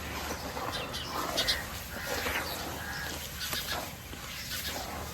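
White cement shapes crumbling in water, with irregular crackling and crunching and short clicks one after another.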